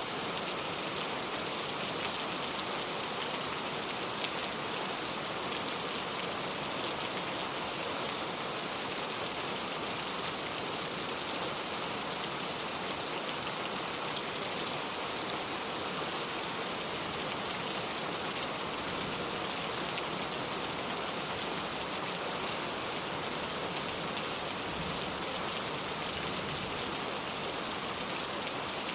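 Heavy rain pouring steadily, a dense even hiss of drops with no pauses or changes.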